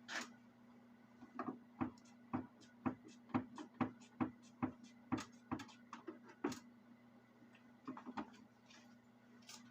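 A run of sharp light clicks or taps, about two a second for some five seconds, with two more a little later, over a faint low steady hum.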